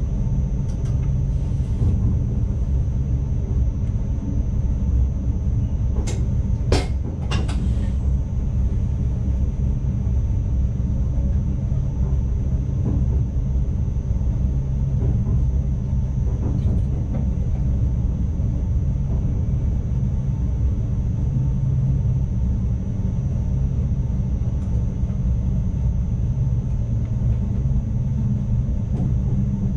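Cab of an ICMm electric multiple unit running along the line: a steady low rumble with a faint constant high whine. Several sharp clicks come close together about six to seven seconds in.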